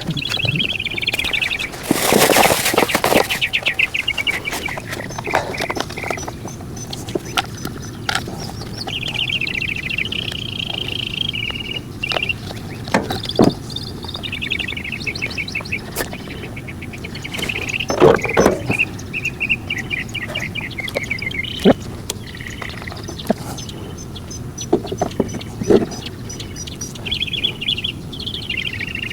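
Small birds singing in repeated rapid trills, with scattered sharp knocks and clicks and a loud rattling burst about two seconds in.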